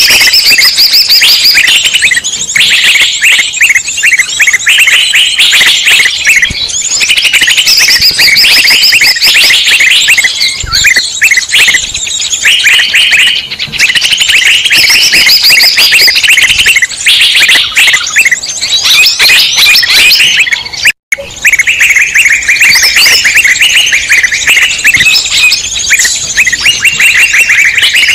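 Dense, loud chorus of many small songbirds chirping and trilling over one another without a break, a bird-lure recording of mixed wild-bird calls. It cuts out for a split second about three-quarters of the way through, then resumes.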